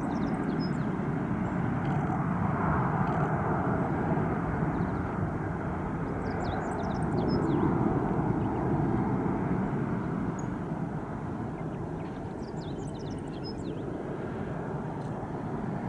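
Boeing 767-300 jet engines heard at a distance as a steady rumbling roar that swells twice and eases off near the end. Small birds chirp over it in three brief bunches.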